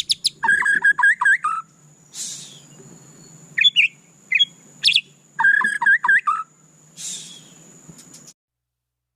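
White-rumped shama singing: quick runs of repeated whistled notes, two harsh rasping notes and scattered single whistles, over a thin steady high tone. The song cuts off suddenly about eight seconds in.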